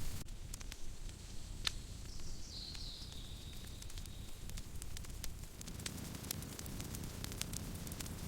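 Campfire crackling, with scattered sharp pops over a low steady rumble. A thin high hiss rises about two seconds in and fades after a couple of seconds.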